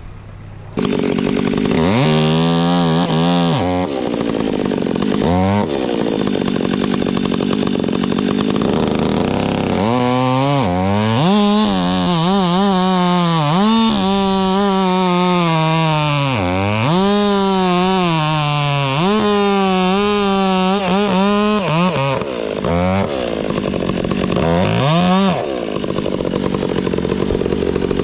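Stihl MS 362 two-stroke chainsaw cutting through wood. It starts loud just under a second in, then revs up again and again, its pitch dipping and recovering through a long run of cuts in the middle, with steadier stretches between.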